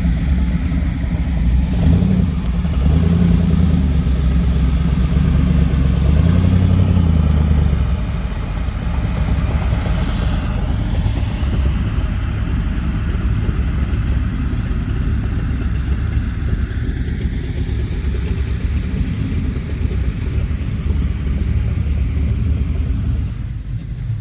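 Low rumble of a classic car's engine arriving. It is louder with its pitch rising and falling for several seconds near the start, then settles to a steadier, lower rumble.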